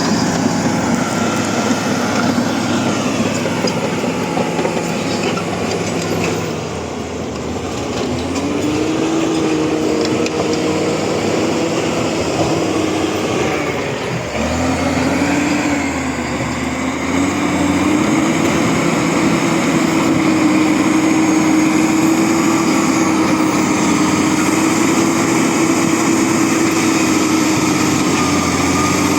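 Bulldozer's diesel engine working under varying load. Its note sags twice, about a quarter and half way through, then climbs back and holds steady.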